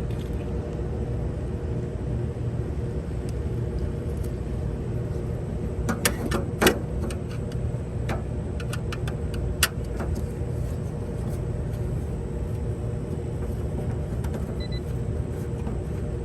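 A few sharp metallic clicks and taps, mostly between about six and ten seconds in, as an air-conditioner run capacitor is disconnected and taken out. Under them is a steady low machine rumble.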